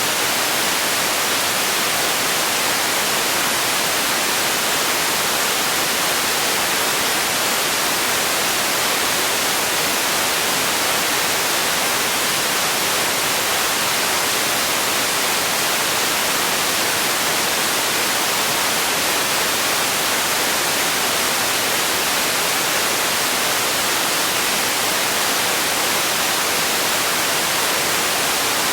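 Steady, unchanging hiss of generated white noise, heavier in the highs than in the lows.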